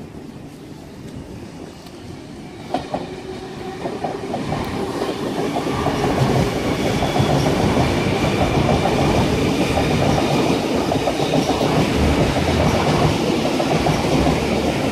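K set double-deck electric train passing through the station at speed without stopping, its wheels clattering over the rail joints. The sound builds from about three seconds in and stays loud to the end.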